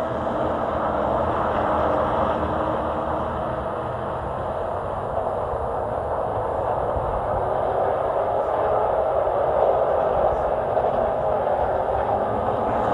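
Race truck engine running at speed on the track, a steady drone with no clear revving or shifts.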